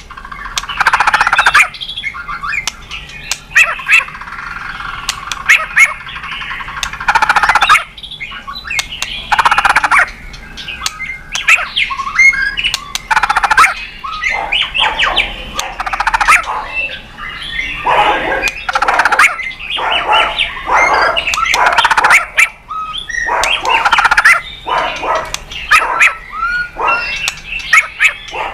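White-rumped shama singing a loud, continuous run of varied phrases: clear whistles mixed with harsh rasping notes, with brief gaps between phrases.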